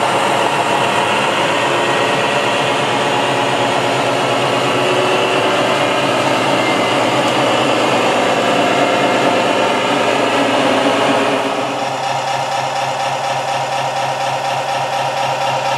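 Radio-controlled construction machine running, with motor and gear whine. About eleven seconds in, the sound changes to a slightly quieter, steadier hum.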